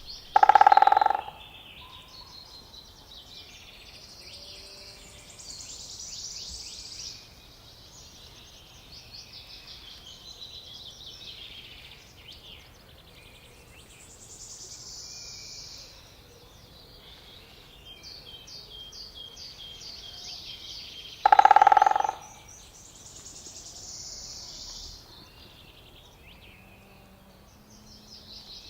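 Woodland songbirds singing, a continuous chorus of high chirps and trills. Two short, loud, pitched tones, each under a second, stand out: one right at the start and one about 21 seconds in.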